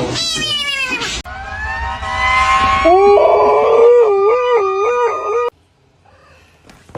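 A dog howling: a falling cry, then a rising one that settles into a long wavering howl before it breaks off suddenly.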